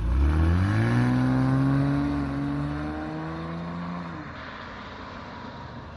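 Porsche Cayman's flat-six engine accelerating away from a standstill: its note rises over the first second, then holds steady and grows quieter as the car pulls away, fading out about four seconds in.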